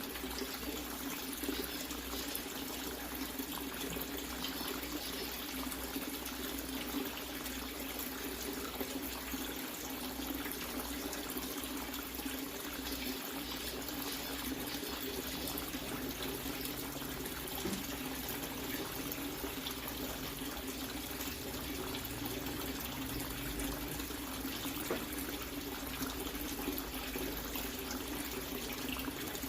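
Water running and splashing steadily into a water-filled tank, without a break.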